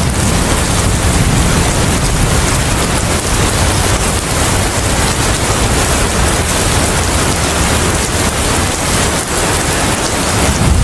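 Heavy rain falling steadily, with a deep rumble underneath that fades over the first few seconds.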